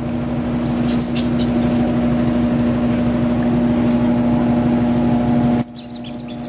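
A steady mechanical hum with one strong low tone cuts off suddenly about five and a half seconds in. Over it come short, high-pitched squeaks from five-week-old puppies, several about a second in and more after the hum stops.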